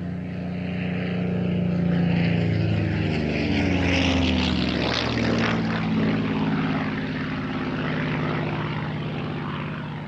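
Piston aero engines of a Battle of Britain Memorial Flight Second World War warbird flying past, their steady drone dropping in pitch about four seconds in as the aircraft passes.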